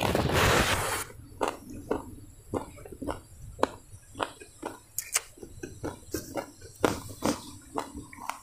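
Close-up mouth sounds of a person eating: irregular wet smacks and clicks of chewing, several a second. A loud rustling noise fills about the first second, then stops.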